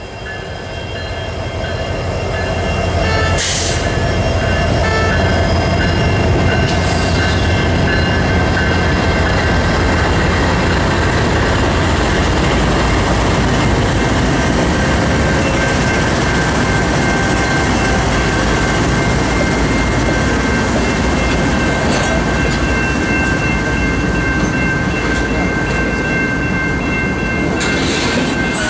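Diesel freight train led by EMD locomotives passing close by: a deep rumble builds over the first few seconds and then holds steady as the train rolls past. Steady high tones ring throughout, and a few sharp clanks are heard about three and six seconds in and again near the end.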